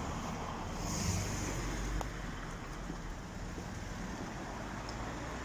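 Steady road traffic noise, a low rumble of passing vehicles, swelling slightly about a second in.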